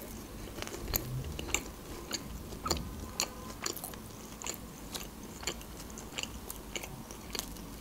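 Close-miked chewing of a soft pastry: a run of small wet mouth clicks about twice a second, with another bite taken near the end.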